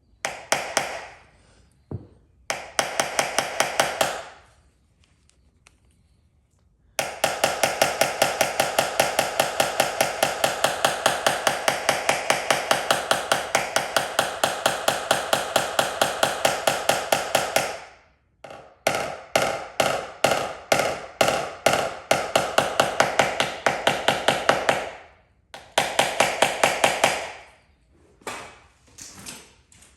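Rapid, steady hammer tapping on a vehicle's sheet-metal body panel, each tap ringing, in runs of several seconds with short pauses. This is typical of paintless dent repair tap-down work, knocking down high spots on the panel.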